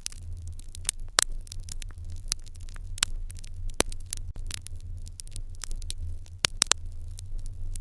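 Wood fire in an irori hearth crackling, with irregular sharp pops and snaps over a steady low rumble; the loudest pops come about a second in, about three seconds in, and a cluster about six and a half seconds in.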